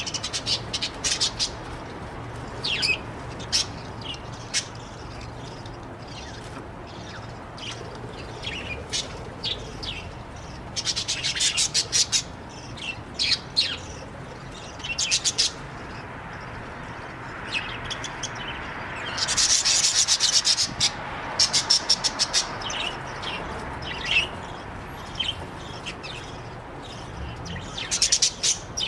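Budgies chirping in short, sharp calls, mixed with scratchy rubbing sounds from inside the wooden nest box. The scratching comes in quick clusters, loudest about two-thirds of the way in.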